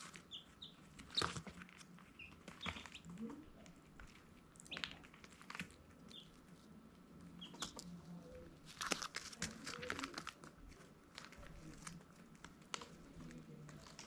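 Baby chicks peeping, scattered short high chirps, mixed with irregular scratching and tapping clicks that are loudest about nine to ten seconds in.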